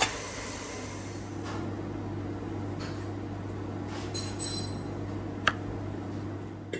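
Light clinks of glassware or crockery over a steady low hum: a few soft knocks, then a pair of ringing clinks about four seconds in and a sharp click a little later.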